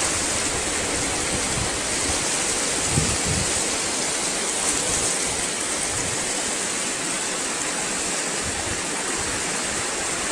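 Steady rushing noise of water, even and unbroken, with no distinct hail hits.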